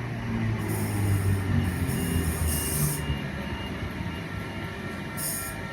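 Sydney Trains Oscar (H-set) electric multiple unit standing at the platform just before departure, with a steady low hum and three short hisses of air.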